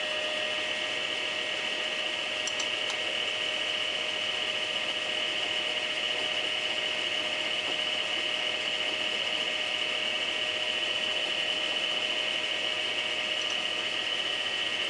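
Lathe running steadily, spinning a milling cutter, with a constant hum and a high whine. A couple of faint ticks come in about two and a half seconds in.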